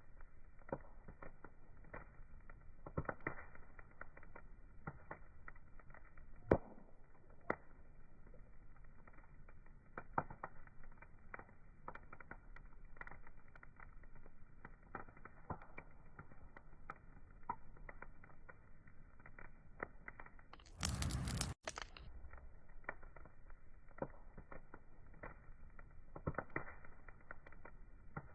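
Wood fire crackling, with irregular small pops over a soft hiss and one sharper pop about six seconds in. About three-quarters of the way through, a brief louder rush of noise lasts under a second.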